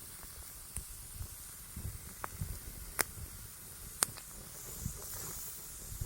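Bamboo tubes of chicken roasting over a wood fire: a steady high hiss of steam escaping from the heated green bamboo, broken by a few sharp cracks and pops, the loudest two about a second apart midway. The bamboo is steaming and charring as the chicken inside cooks.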